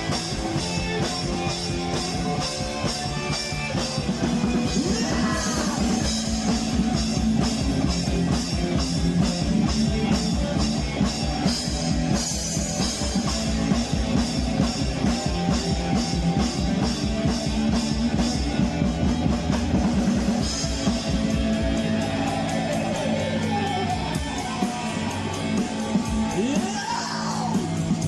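Rock music with drum kit and electric guitar playing a steady beat.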